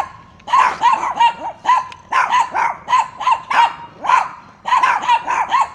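Dogs barking repeatedly at a cat, in quick runs of short, high-pitched barks about two or three a second, with brief pauses between runs.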